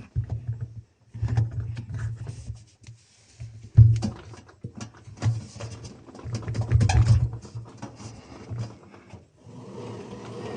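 Samsung Eco Bubble WW60J32G0PWOLD front-loading washing machine running a wash: the drum motor hums in uneven bursts of about a second with short pauses, with knocks and clunks from the tumbling load. Near the end a steadier whirring starts.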